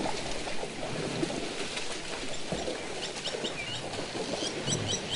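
Small birds chirping in short, quick, descending calls, several in a row from about three seconds in, over a steady low background noise.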